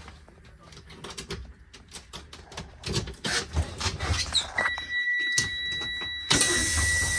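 Clicks and knocks, then about four and a half seconds in a school bus warning buzzer starts sounding a steady high-pitched tone. A loud hiss joins it near the end.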